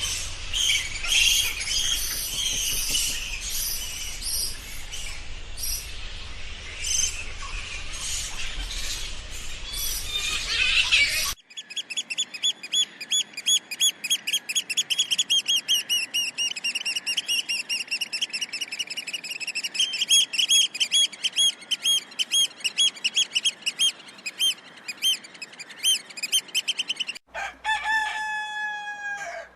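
Bird calls in three cut-together clips: first a dense, noisy chorus of chirping, then a long run of rapid, evenly repeated high chirps, and near the end a rooster beginning to crow.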